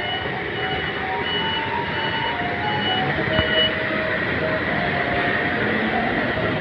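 Taiwanese garbage truck's loudspeaker tune: a simple electronic melody of single held notes, with a short high beep repeating about twice a second that stops a little past halfway, over steady truck and street noise.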